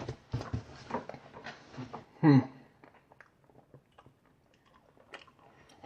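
A person chewing a mouthful of Rocky Road ice cream with nuts and marshmallow, with irregular small wet clicks. There is a short voiced sound about two seconds in, and it goes mostly quiet after about three seconds.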